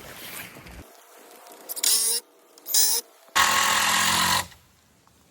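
Power drill driving screws into 2x4 lumber: two short runs, the first spinning up in pitch, then a longer run of about a second.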